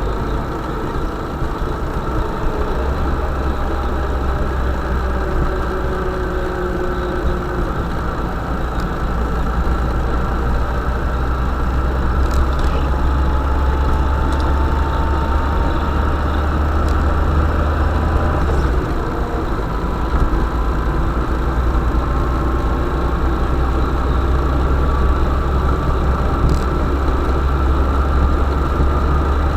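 UAZ Bukhanka van's engine running steadily with a deep rumble, its pitch drifting slowly up and down as the revs change, with a few short knocks.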